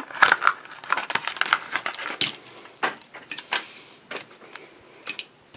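Plastic blister pack of a Hot Wheels diecast car being handled and pried open. A quick run of crackles and clicks over the first two seconds or so, then scattered clicks.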